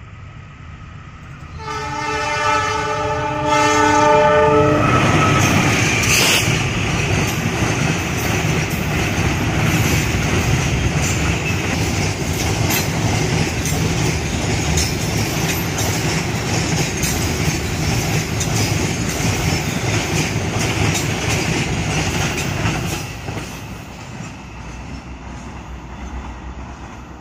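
A train sounds its multi-tone locomotive horn about two seconds in, then passes close by with a loud rumble and wheels clacking over the rail joints. It fades away near the end.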